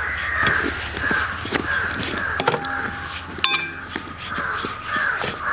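Crows cawing over and over in the background, with a few sharp clicks of a spoon against the pan as the spice powders are stirred and roasted.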